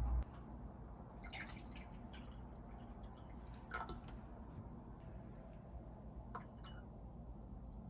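A low hum cuts off right at the start, then quiet room tone with a few scattered light taps and clicks, about four in all.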